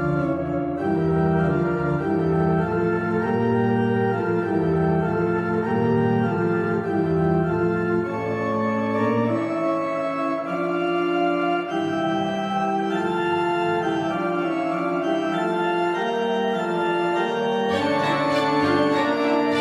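Background music led by a sustained organ-like keyboard playing a chord melody, with a bass line that drops out about halfway through and a fuller, brighter texture coming in near the end.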